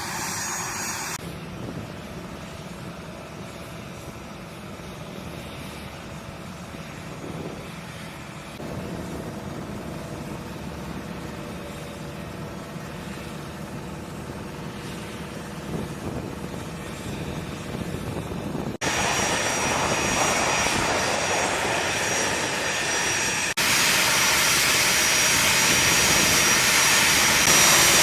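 A-10 Thunderbolt II's twin General Electric TF34 turbofan engines running, a steady jet noise with held whining tones. The sound changes abruptly at cuts, growing much louder about two thirds of the way in and again a few seconds later.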